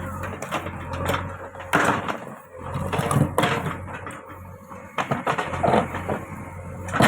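Heavy earth-moving machine at work: its engine runs with a steady low hum under irregular clanks and scraping bangs.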